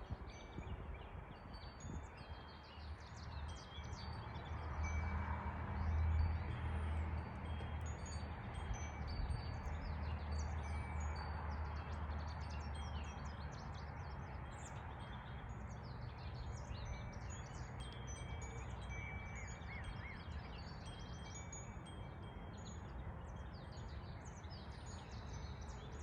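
Songbirds chirping and singing, many short high calls overlapping throughout. A low rumble swells about five seconds in and fades away by the middle.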